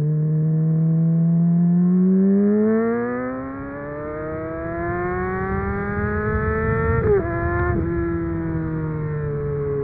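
Muffled inline-four motorcycle engine pulling up through the revs, its pitch climbing steadily for several seconds. Near the end it breaks sharply twice, then the pitch sinks slowly as the revs come down.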